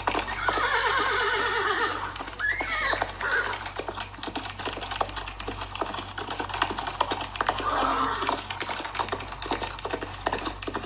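Horse whinnying: a long, wavering neigh about half a second in, a shorter call around two and a half seconds, and a third near eight seconds, over a steady run of small clicks and knocks.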